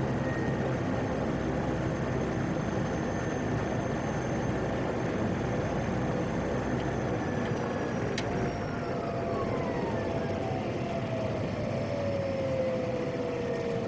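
PAC 750XL's single turboprop engine running in the cockpit, steady at first. About eight seconds in there is a click, then its whine falls steadily in pitch as power comes back after landing.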